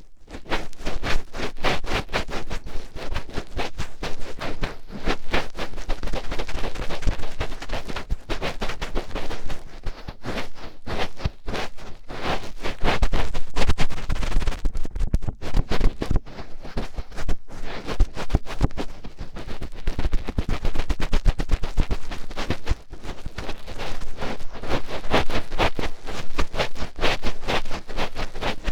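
Fingertip rubbing and digging deep in an ear right at the microphone: dense, fast crackling and scratching that swells and eases in waves.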